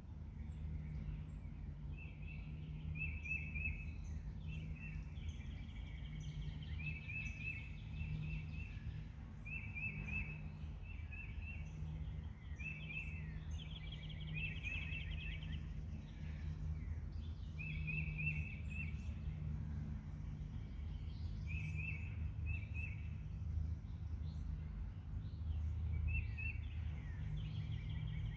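Small birds chirping in short, quick trilled phrases that repeat every second or two, over a steady low rumble of background noise.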